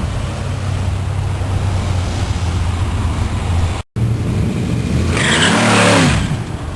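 Old American cars' engines rumbling at low cruising speed in street traffic. About four seconds in the sound cuts out for a moment, then a louder car passes close by, its pitch rising and then falling.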